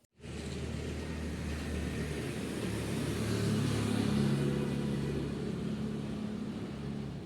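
An engine running steadily with a low hum that shifts a little in pitch, swelling slightly in the middle and easing toward the end, like a car going by or driving.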